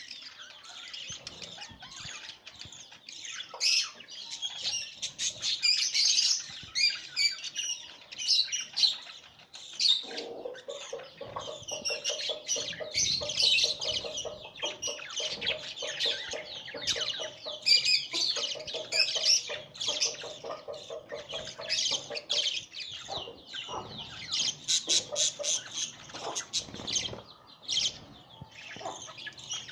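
Budgerigars chattering in rapid high chirps and squawks. From about ten seconds in until about twenty-two seconds, a lower, steady pulsing call runs beneath the chatter.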